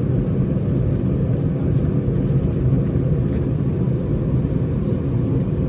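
Steady low rumble of an Airbus A319's CFM56 engines, heard inside the passenger cabin.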